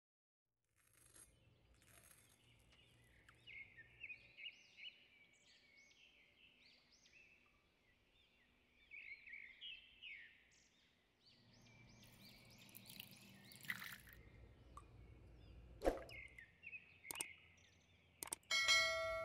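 Faint twittering of small birds, many quick gliding chirps one after another, over a low rumble of room noise. A few sharp clicks sound late on, and near the end a single loud ringing clink.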